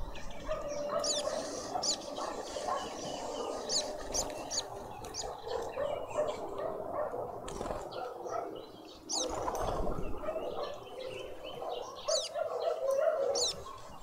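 Garden birds calling at a feeder: short, sharp high chirps that come again and again over a busier, lower chatter.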